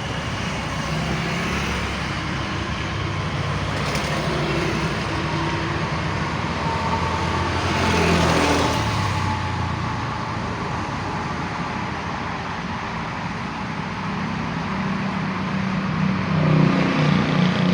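Steady road traffic noise, with one vehicle passing about eight seconds in, its tone falling as it goes by, and an engine growing louder near the end.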